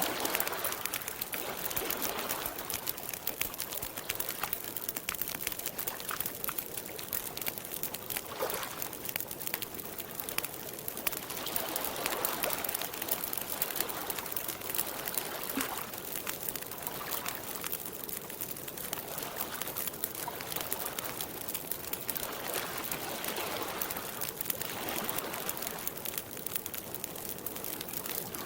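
Campfire crackling with a steady stream of small pops, over the soft wash of lake water lapping at the shore in gentle swells every couple of seconds.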